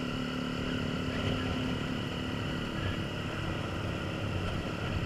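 Honda CBF125's single-cylinder four-stroke engine running steadily, with wind buffeting the camera microphone.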